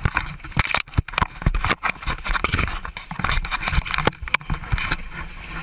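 Jostled, clipping camera-microphone audio inside an aircraft cabin in a ditching emergency: a dense jumble of knocks, scrapes and clatter over a noisy rumble, with frequent brief dropouts.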